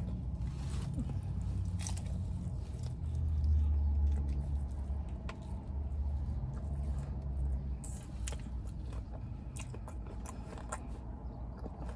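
Close-up biting and chewing of sauced fried chicken wings, with wet mouth smacks and soft crunches over a low rumble.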